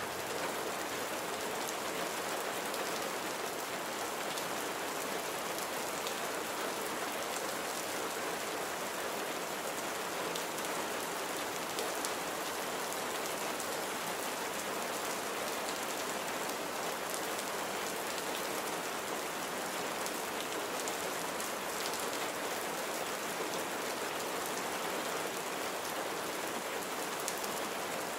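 Steady rain falling, an even hiss of rain on surfaces with fine individual drop ticks and no change in intensity.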